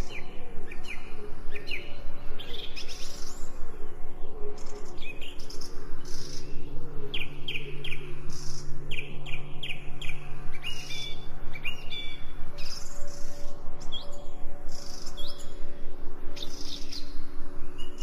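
Songbirds chirping in short, quick repeated notes, over a steady low humming drone of held tones from an ambient music bed.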